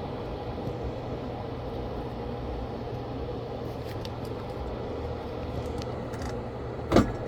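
A steady fan-like hum and hiss from workbench equipment, with a few faint ticks and one short, louder sound near the end.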